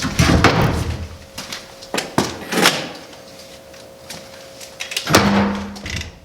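A series of sharp knocks and clunks, like a door or metal hatch being opened and shut: two near the start, a few more in the middle, and a louder cluster near the end. A faint steady hum runs underneath.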